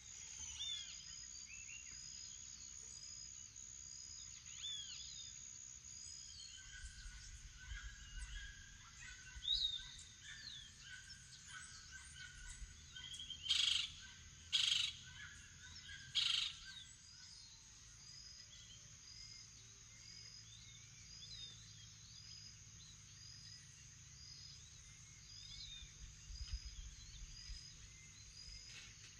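Morning bird chorus: scattered whistles and chirps over a steady high-pitched insect drone and a short call repeating just under once a second. Three loud, harsh calls come close together about halfway through.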